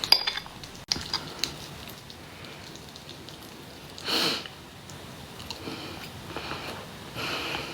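A person eating quietly: faint mouth and chewing sounds with a couple of small clicks, and one short breathy sniff about four seconds in.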